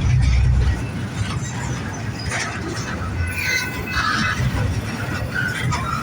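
Double-stack intermodal freight train rolling past, with a steady low rumble and short high-pitched wheel squeals every second or so.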